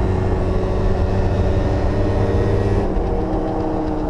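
Yamaha Zuma 50cc scooter engine running steadily under throttle while riding; about three seconds in the throttle eases and the engine note drops a little.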